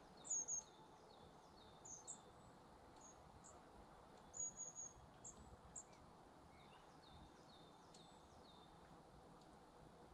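Small birds calling: short high chirps, the loudest just after the start and again around four to five seconds in, with faint runs of repeated falling notes, over a faint steady background hiss.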